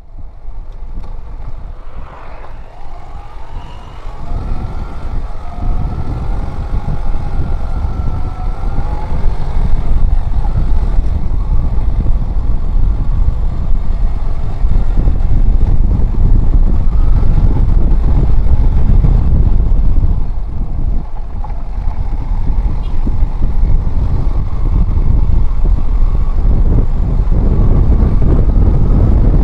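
Motorcycle being ridden: the engine's tone climbs and wavers over the first ten seconds, under a heavy low rumble of wind on the microphone that builds with speed and then stays loud.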